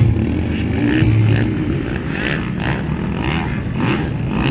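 Motocross dirt bikes' engines running on the track, one revving up about a second in.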